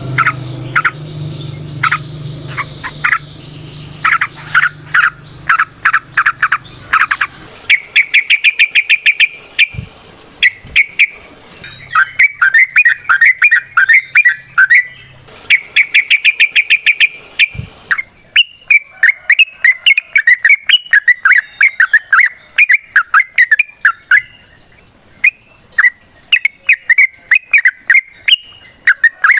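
Yellow-vented bulbul (trucukan) singing a long, loud chattering song of quick notes, broken by runs of fast repeated notes. A low steady hum sits under the first several seconds and returns briefly midway.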